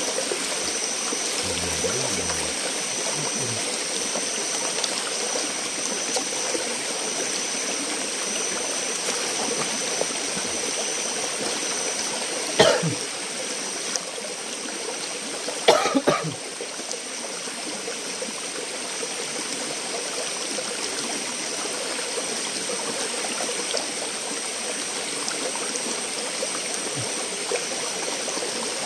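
Steady rush of a flowing forest stream, with a person coughing twice: once about thirteen seconds in and again, longer, about three seconds later.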